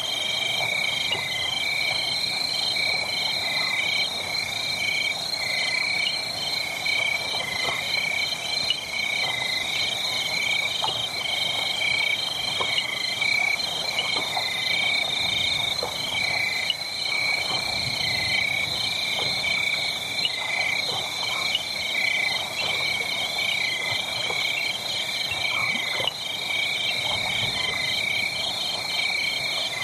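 A steady night chorus of high, rapidly pulsing animal calls, over a wood fire crackling with scattered small pops.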